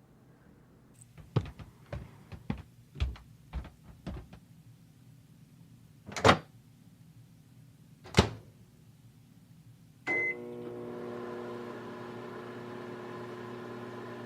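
A microwave oven being used: light clicks and taps, two loud knocks of the door, then a short beep and the steady hum of the microwave running, heating a bear-shaped heat pack.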